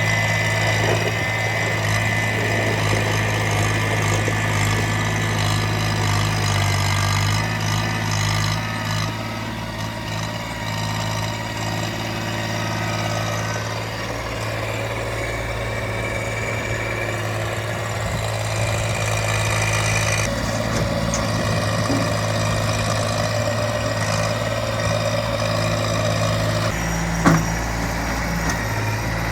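Small tractor's engine running steadily while digging, its pitch shifting a few times as it works. There is one sharp knock about two seconds before the end.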